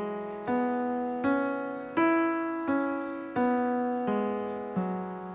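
Single piano notes played slowly by the left hand up the E major pentatonic scale to the top E about two seconds in, then stepping back down, one note roughly every 0.7 seconds, each struck and left to ring.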